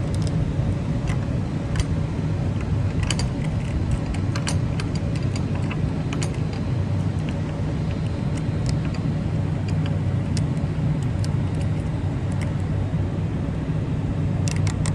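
Semi-truck diesel engine idling steadily as a low hum, with scattered sharp clicks and knocks throughout.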